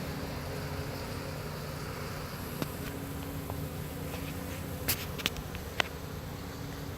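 Honeybee swarm buzzing steadily at close range, a continuous low hum. A few sharp clicks cut through it, the loudest about five to six seconds in.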